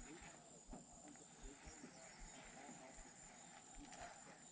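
Near silence with a faint, steady, high-pitched insect drone.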